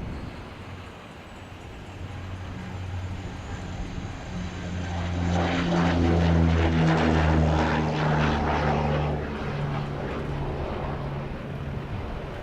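Gulfstream Jet Prop Commander 900's twin turboprop engines and propellers, with a low steady propeller drone and turbine noise. It grows louder to a peak around the middle as the plane passes close, then eases off.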